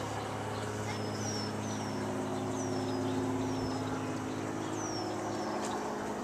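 Birds calling outdoors in short, high, downward-slurred chirps, several times over the few seconds, above a steady low hum and a background hiss.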